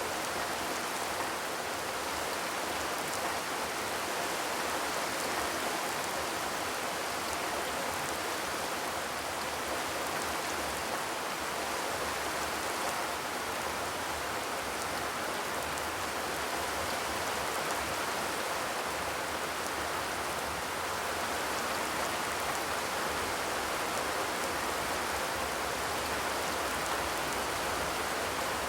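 Steady rain with no thunder, an even hiss of rainfall that does not change.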